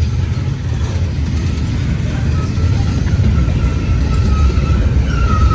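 Freight train rolling past: a loud, steady low rumble.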